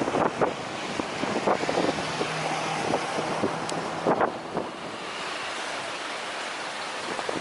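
Strong wind buffeting the microphone: a steady rushing noise broken by sudden gusty thumps, the strongest just after the start and about four seconds in.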